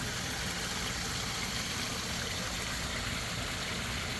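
Steady rush of running water at a koi pond, an even trickling hiss without breaks.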